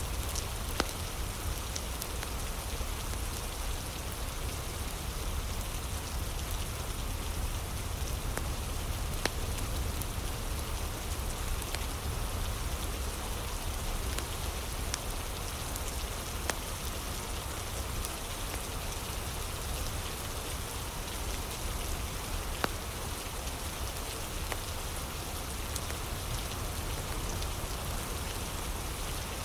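Steady rain falling, with a few scattered sharp pops from a crackling fire.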